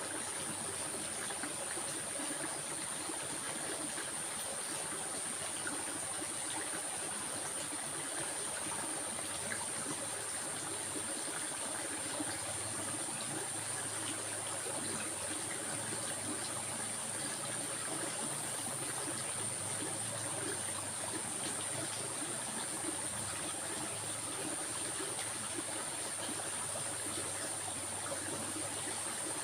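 A stream flowing and trickling steadily, with a constant high-pitched hiss above it.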